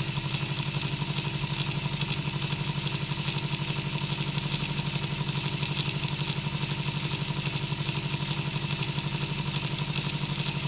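Electric motor of a LEGO table fan running steadily on its second speed setting, gears and blades whirring with a fast, even pulsing.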